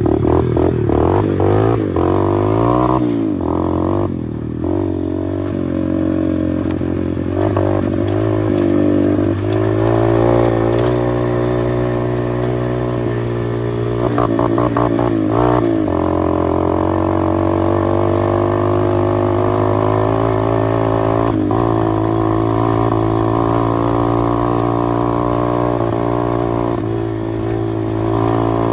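125cc pit bike's single-cylinder engine under way, revving up and down through the first ten seconds or so, then holding a steady pitch at an even throttle.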